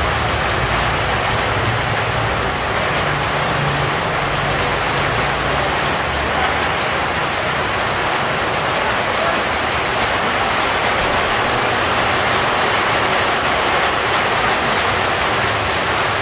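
Steady rain falling on leaves and a wet road, an even hiss. A low hum underneath fades out about five seconds in.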